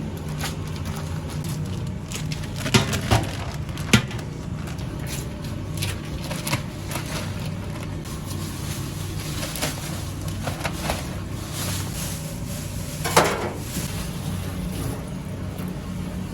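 Kitchen work noise: a steady low hum under scattered knocks and clatters, the loudest about three, four and thirteen seconds in.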